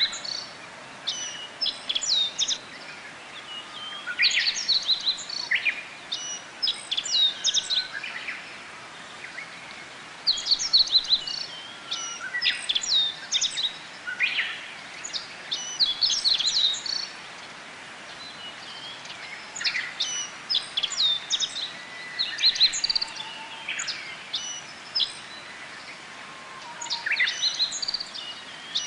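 Japanese white-eyes singing: clusters of quick, high, sweeping notes, a phrase every few seconds, over a steady background hiss.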